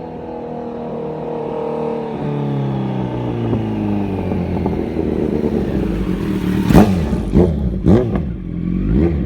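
2017 Kawasaki Z900's inline-four through an SC Project S1 titanium slip-on exhaust with the baffle removed: the engine note drops steadily and grows louder. About seven seconds in come several short, sharp bursts of revs with cracks, one after another.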